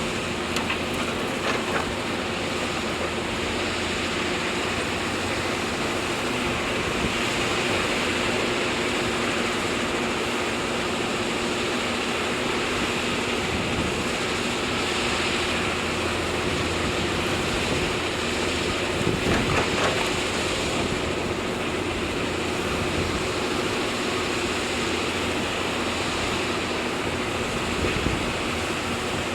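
Heavy diesel earthmoving machinery running steadily with a constant engine hum and a wash of noise, with a few knocks about two-thirds of the way through.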